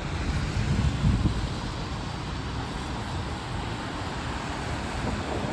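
Downtown street in heavy rain: a steady hiss of rain and wet traffic, with a low rumble that is strongest in the first second or so and then evens out.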